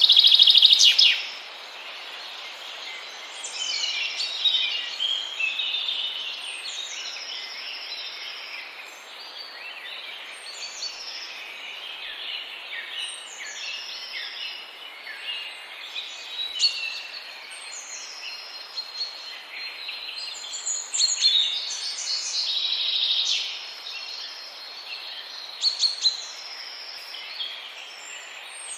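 Several small birds singing and chirping in high, repeated whistled notes over a steady background hiss, with a loud burst of rapid chatter about a second long at the start.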